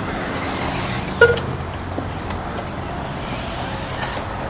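Electric RC buggies racing around a track: a steady mix of motor and tyre noise, with a short, sharp pitched blip about a second in.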